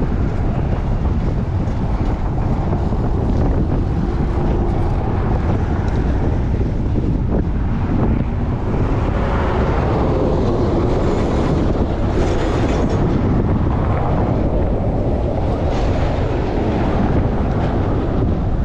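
Strong wind buffeting a chest-mounted camera's microphone while cycling, a steady loud rumble. A brighter rushing swell rises around the middle and fades again.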